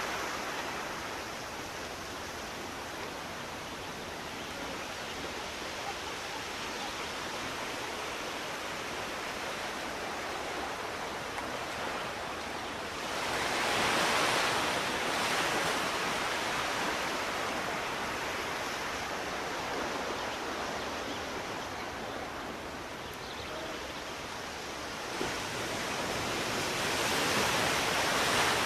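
Sea waves washing on the shore: a steady rushing with two bigger waves swelling and breaking, one about halfway through and one near the end.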